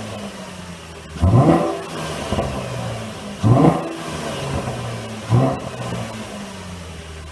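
A V6 Camaro engine breathing through a Magnaflow resonated X-pipe exhaust, idling and blipped three times. Each rev climbs quickly and drops straight back to idle, about two seconds apart.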